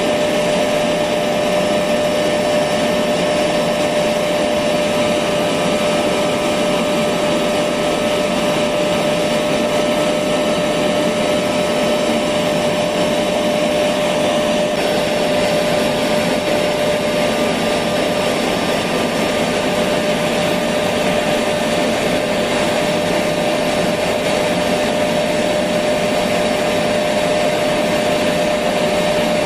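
Electric vacuum cleaner motor running steadily, a constant whooshing hum with a steady whine, used as white noise to lull a baby to sleep.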